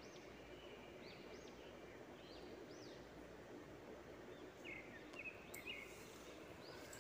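Near silence with faint bird chirps: short, high calls repeating every second or so, with a small cluster of lower chirps near the end.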